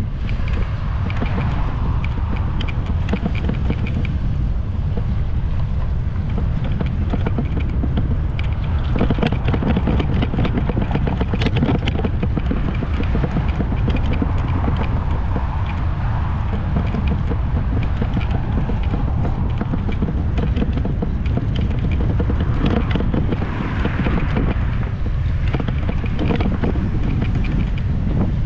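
Strong wind blowing across the microphone during a bike ride: a steady, heavy low rumble with faint scattered clicks.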